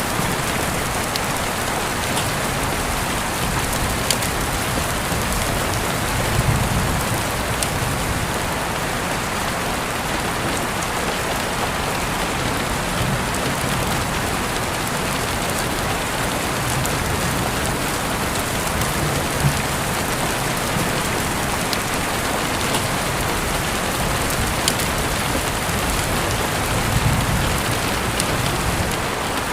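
Steady rain falling, an even hiss with scattered sharper drop ticks and a few soft low rumbles.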